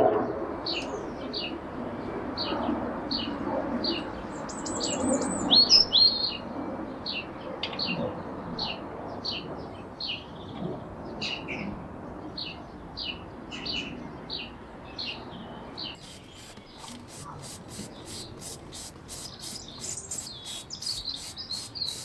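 Songbirds chirping and singing, one repeating a short high chirp over and over, with a louder trill about five seconds in. From about two-thirds of the way through, an even clicking about three times a second runs under the birdsong.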